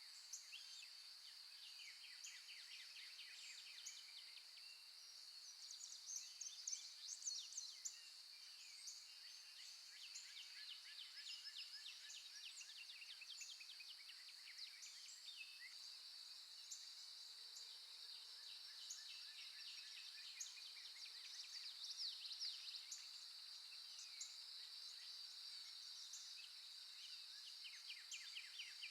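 Faint background recording of songbirds chirping and trilling in a continuous chorus over a steady high hiss.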